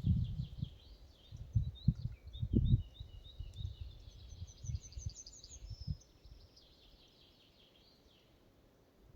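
Small songbirds singing fast trills and chirps in a forest, fading out after about six seconds. Irregular low thumps sound under the song over the first six seconds, louder than the birds.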